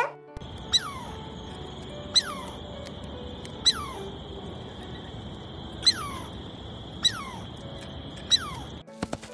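An animal's short, high call that falls steeply in pitch, given six times about one to two seconds apart, over a steady high hiss that stops shortly before the end.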